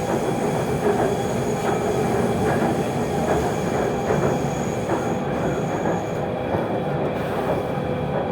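Lahore Orange Line metro train running between stations, heard from inside the carriage: a steady rumble of the wheels on the track. A thin, high, steady tone stops about six seconds in.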